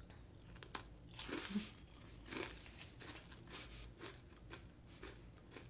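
Crisp meringue being bitten and chewed, crunching in short, faint crackles as it crumbles in the mouth.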